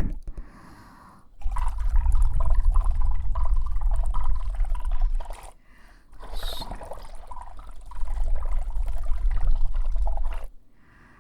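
Close-up ASMR sound on a KU100 binaural dummy-head microphone's ear: two stretches of crackly rubbing with a deep rumble, each about four seconds, with a short break between.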